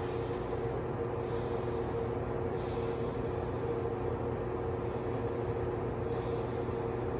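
A steady mechanical hum with two held tones over a low rumble, unchanging throughout.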